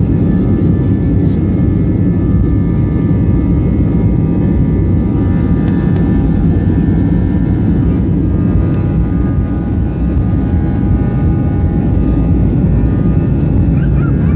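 Jet engines of an Airbus A320-family airliner running at takeoff power: a steady loud roar with several whining tones held above it.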